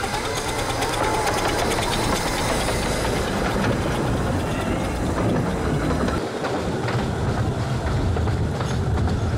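A 15-inch gauge miniature train running on the track: a steady rumble of wheels on rail, with the low drone growing stronger near the end.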